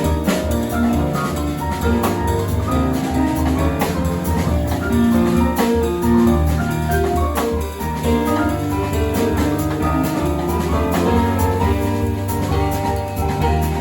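Small jazz band playing live: a drum kit keeping time under sustained keyboard and piano notes.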